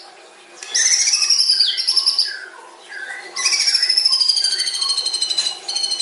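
White-rumped shama (murai batu) singing long phrases: rapidly pulsed whistles that slide down in pitch, broken by shorter, lower notes. A long descending trilled whistle begins a little after halfway and runs on.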